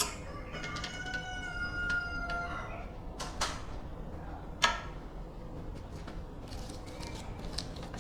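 A rooster crowing once, a held call of about two seconds near the start. It is followed by a couple of sharp clicks, a louder knock about four and a half seconds in, and lighter ticking near the end.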